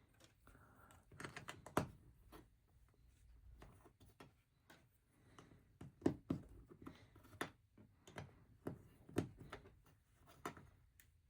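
Plastic LEGO bricks clicking and snapping together as pieces are pressed on and handled, in irregular sharp clicks with a few louder snaps.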